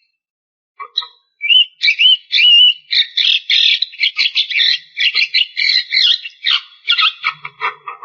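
Javan myna singing a long, dense run of rapid chattering notes mixed with looping whistles, starting after about a second and a half of silence.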